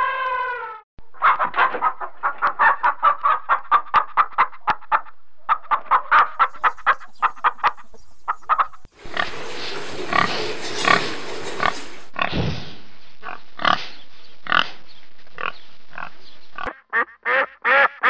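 A run of animal calls: an elephant's trumpet trails off in the first second, then comes a long series of short, quick calls. About nine seconds in, pigs grunt and squeal, and scattered short calls follow to the end.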